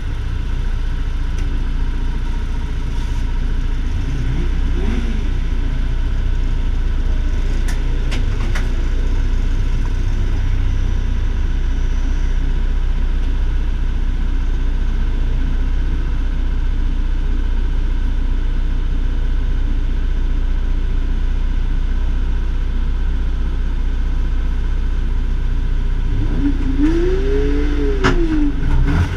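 The BMW 2002 ti's four-cylinder engine idling steadily while it is held in the queue, heard from inside the cabin. Near the end an engine revs up and back down once.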